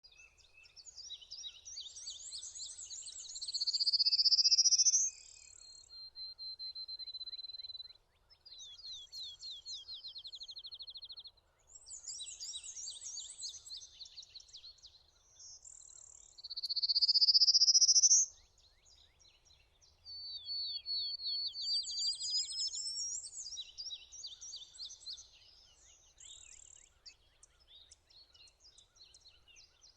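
Prairie warblers singing a series of high phrases with short pauses: zigzag notes, fast trills, and, loudest, a rising buzzy phrase about four seconds in and again around seventeen seconds.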